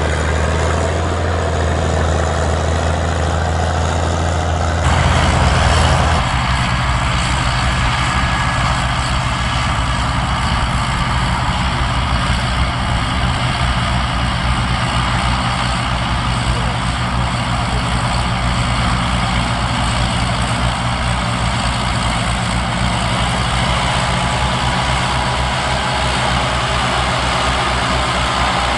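Tractor engine running steadily with a low pulsing beat; the sound changes abruptly about five seconds in.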